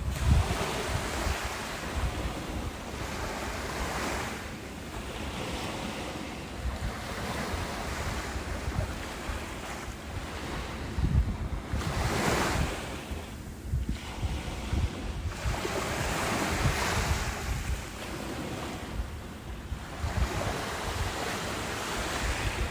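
Ocean waves breaking and washing in, swelling and fading every few seconds, with wind rumbling on the microphone.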